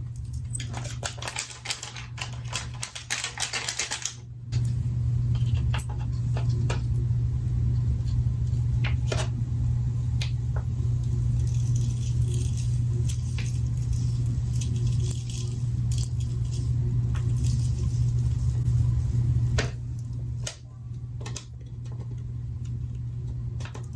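Crinkling and rattling of a foil packet of blonding booster powder being opened and handled for a few seconds. A low steady hum then starts and runs until a few seconds before the end, with a few scattered light clicks.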